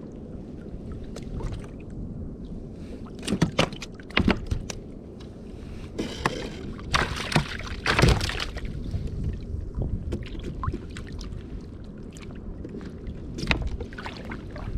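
Sounds of a sit-on sea kayak on the water: a steady low rumble of wind and water against the hull, broken by several sharp knocks and short splashy bursts, a cluster of them a few seconds in and again past the middle.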